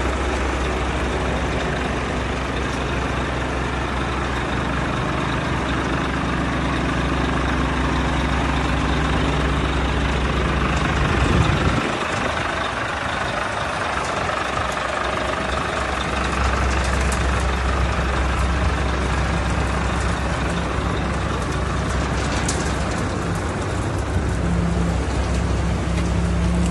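Scania P400 concrete mixer truck's diesel engine running steadily with a low drone. About halfway through, the low drone drops away for a few seconds, then comes back.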